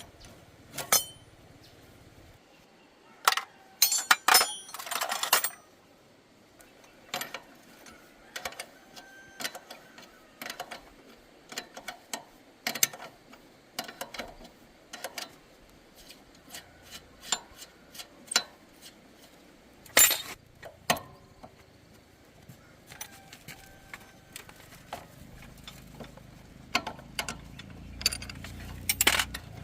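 Metal hand tools and small parts clinking and knocking against each other, many separate clicks with a brief rattle about four seconds in and one louder knock past the middle. A low rumble comes up near the end.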